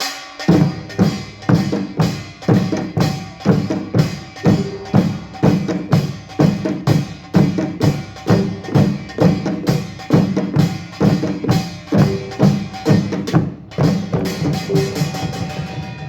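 Pungmul, Korean percussion ensemble, playing: clattering small-gong strokes over drum hits in a steady beat of about two strong beats a second. A short break comes about two-thirds of the way through, and the ensemble stops together near the end, leaving the sound to ring away.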